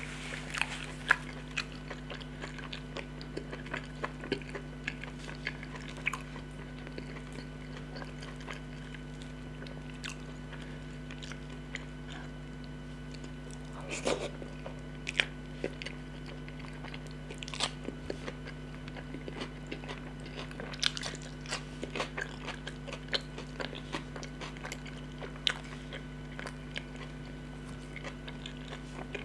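Close-miked eating sounds: wet mouth smacks, chewing and small crunches as chicken and greens are eaten by hand, heard as many short sharp clicks scattered throughout. A steady low electrical hum runs underneath.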